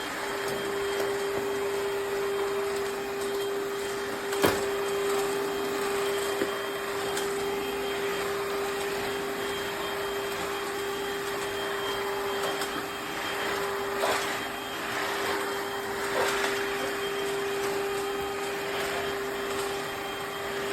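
EUREKA NEW400 cordless wet-dry hard-floor vacuum running steadily: a constant motor hum over an even rush of suction noise. A single sharp click comes about four and a half seconds in.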